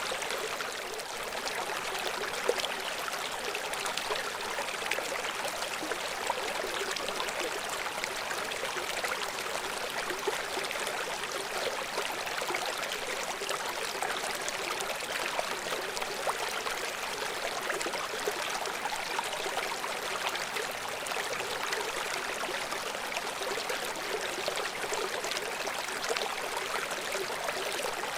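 River water flowing and splashing over rocks, a steady rushing with no let-up.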